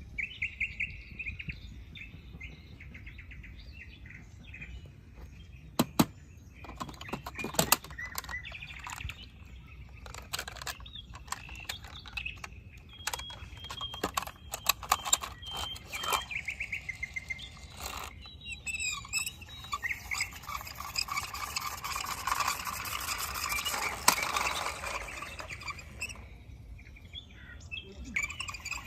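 Birds chirping and trilling in short repeated calls, with scattered sharp clicks and knocks, the loudest a few seconds in; the chirping grows busier about two-thirds of the way through.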